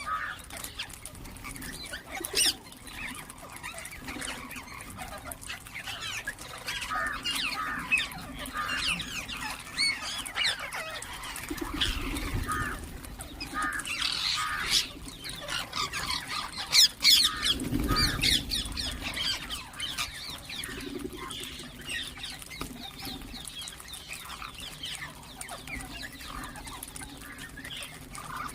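Ringneck parakeets chirping and calling: a steady run of short, high chirps and squawks. Twice in the middle there is a louder, lower sound.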